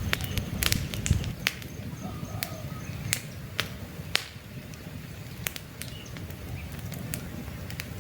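Campfire crackling: wood burning with a low steady rumble and frequent sharp pops and snaps, busiest in the first second and a half and sparser after.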